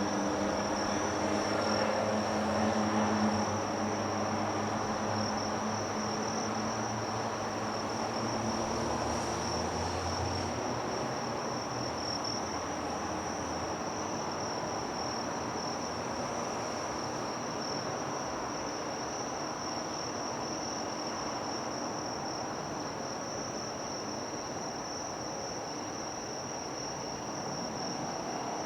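Insects giving a steady high-pitched trill. A low engine drone fades away over the first ten seconds or so.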